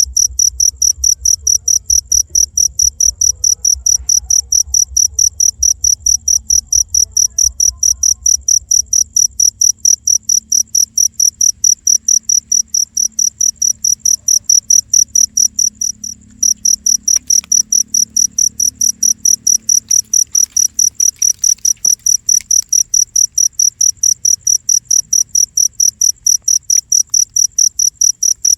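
A cricket chirping: a rapid, even series of high chirps that keeps on without letup, breaking off briefly a little past halfway.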